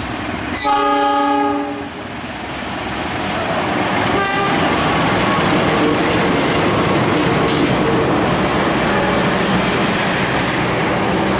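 Diesel-electric locomotive hauling a passenger train sounds a chord horn once for about a second, gives a shorter, fainter toot about four seconds in, then passes close by with the loud, steady running noise of its engine and the train's wheels on the rails.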